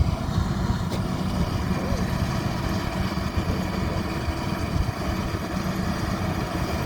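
Combine harvester running steadily while harvesting millet, its engine and reaping and threshing units turning together in one continuous mechanical drone.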